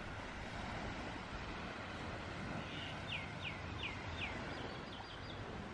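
A bird calling a quick series of short downward-sliding whistled notes, about three a second, fading into a few fainter, higher notes, over steady low outdoor background noise.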